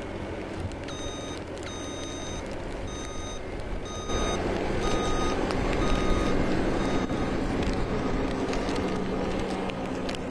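A vehicle's reversing alarm beeping about once a second, over the steady noise of a running engine. The engine noise grows louder about four seconds in.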